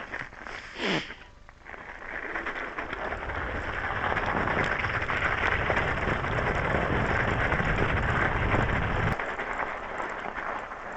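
Electric bicycle tyres rolling over frozen, crusted snow, a steady crunching hiss that builds up about two seconds in, with a low rumble underneath that stops suddenly near the end. A short downward swoosh comes about a second in.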